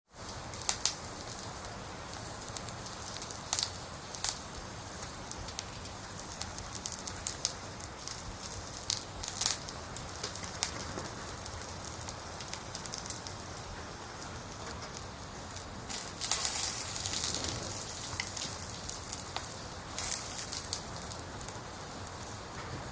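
Wood fire burning: a steady hiss with scattered sharp crackles and pops, thickening into a denser run of crackling about sixteen seconds in.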